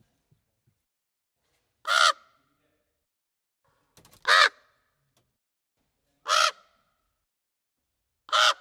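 Common raven calling: four short caws, evenly spaced about two seconds apart.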